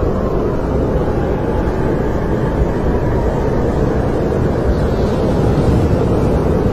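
Snowstorm wind blowing steadily, a low rushing noise with a faint wavering whistle.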